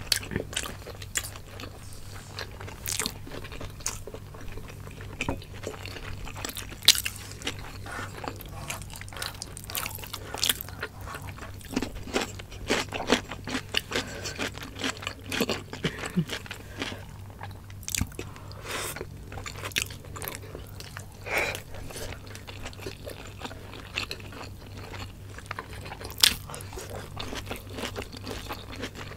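Close-miked eating: mouths chewing and crunching on spicy adobo chicken gizzards and livers with rice, with many short wet clicks and smacks. A steady low hum lies underneath.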